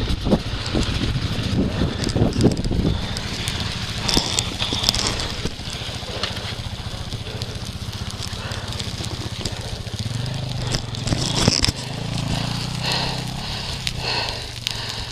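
Dirt bike engine running, coming up louder from about ten seconds in, with irregular knocks and crackling in the first few seconds.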